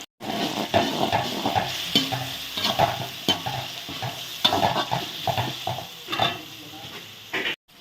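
A ladle stirring a thick onion-tomato masala in a large cooking pot, scraping and clinking irregularly against the metal, while the mixture sizzles.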